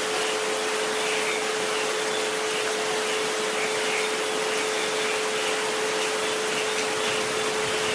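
Steady hiss of recorded rain with a constant pure 432 Hz tone held underneath and a fainter 528 Hz tone just above it.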